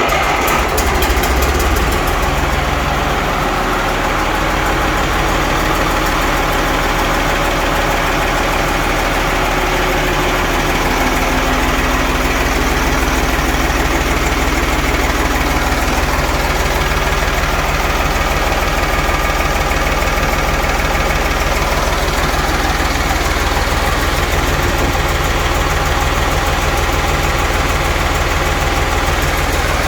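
Eicher Mammut ED 500 tractor's diesel engine idling through a stainless-steel exhaust system and manifold. Its note shifts in the first few seconds, then holds steady.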